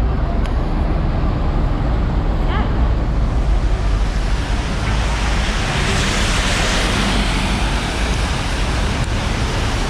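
Steady city traffic noise: a low rumble under a broad hiss that swells about halfway through.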